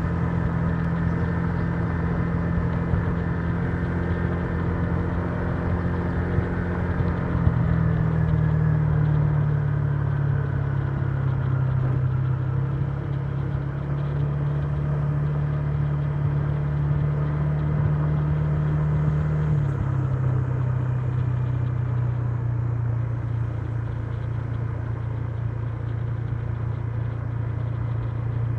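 Honda Giorno 125 scooter's single-cylinder four-stroke engine running steadily on the road, its pitch stepping down twice, about a quarter of the way in and again about two-thirds in, as engine speed drops.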